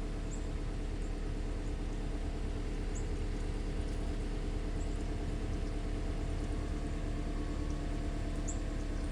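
Northern cardinal giving a few sharp, high chip notes, spaced irregularly one to a few seconds apart, over a steady low mechanical hum like a motor or distant traffic.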